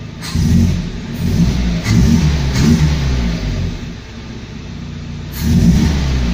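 Car's Vauxhall petrol engine revved in short throttle blips, rising and falling about four times and settling back to idle between them. It runs on petrol and pulls cleanly without backfiring on its new injectors.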